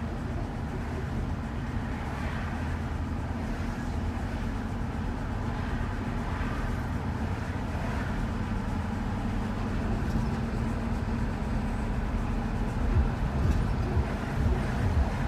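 Steady road and engine rumble inside a moving shuttle van's cabin, with a low hum throughout and uneven bumps from the road surface in the last few seconds.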